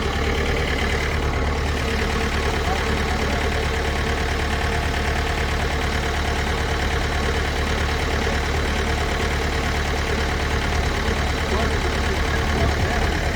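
Engine running steadily at an unchanging speed, with a low hum and an even hiss over it.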